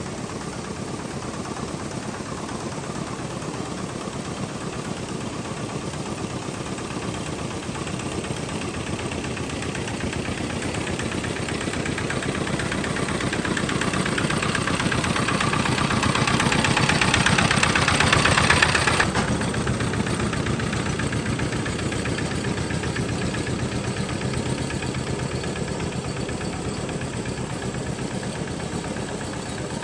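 A homemade tractor's engine running steadily. It grows louder over the first two-thirds, then drops back abruptly and keeps running.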